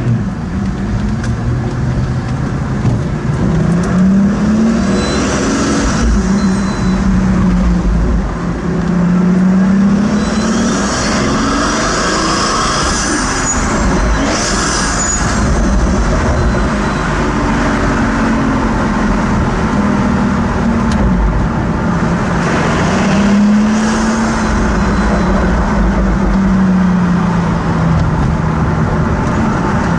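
Pagani Huayra's twin-turbo Mercedes-AMG V12, heard from inside the cabin while driving. The engine note rises and falls several times as the car accelerates and then lifts off, over steady road rumble.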